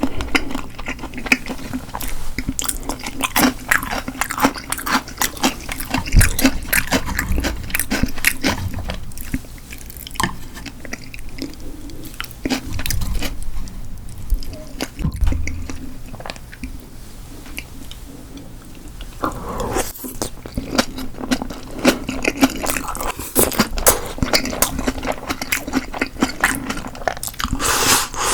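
Close-miked eating sounds of a person chewing food, with many small wet mouth clicks. They come in irregular runs, denser about two-thirds of the way in and again near the end.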